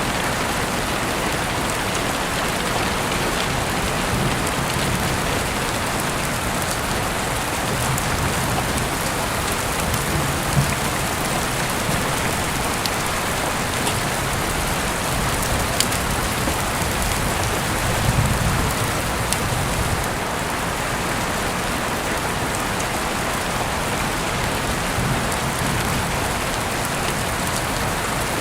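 Steady rain falling, with a few sharp clicks scattered through it.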